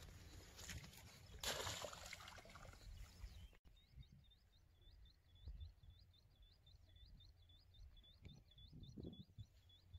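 Faint outdoor ambience with a brief rustle about a second and a half in, then a bird chirping: a steady run of short high chirps, about three a second.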